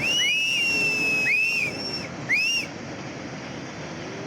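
People whistling shrilly: one long held whistle and three short whistles that rise and fall, stopping a little over halfway through. Under them runs a steady rushing noise from the landslide torrent.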